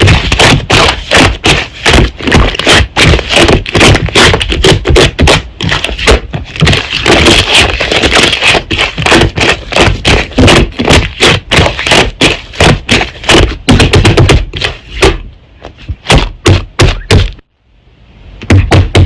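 Slime being squished and pressed by hand: a loud, rapid run of sticky clicks and pops, thinning out and breaking off briefly near the end.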